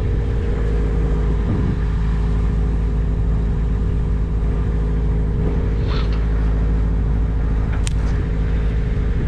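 An engine running steadily at constant speed, a loud, even drone. There is a brief high squeak about six seconds in and a sharp click near the end.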